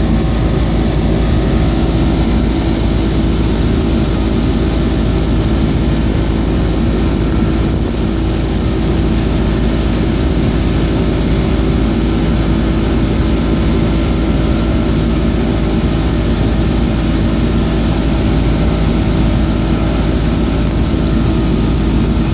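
Suzuki DT225 two-stroke V6 outboard motor running steadily under way, its pitch and loudness holding even throughout.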